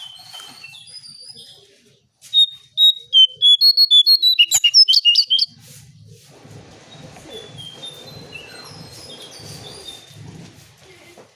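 Cingcoang coklat songbird singing clear whistled notes. A fast, loud run of notes comes a couple of seconds in and lasts about three seconds, and fainter song follows over a low, pulsing background hum.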